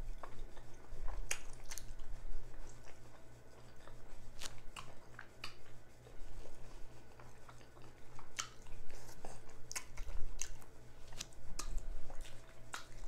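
Close-miked chewing of a jalapeño cheddar sausage in a bun, heard as irregular sharp, wet mouth clicks and smacks between quieter stretches of chewing. A low steady hum runs underneath.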